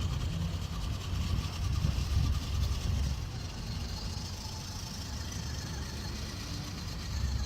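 Tiny RC 6x6 truck driving: a low rumble, heaviest in the first few seconds, then a faint high whine from its small electric motor and gears.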